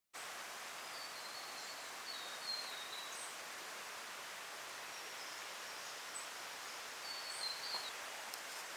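Outdoor bush ambience: a steady hiss, with short high chirping calls of a small bird several times, a couple of them about a second in and more near the end.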